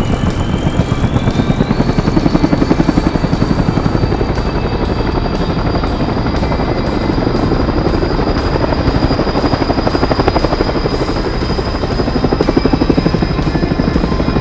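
Helicopter rotor blades chopping rapidly, with a high turbine whine that rises in pitch over the first two seconds and then holds steady.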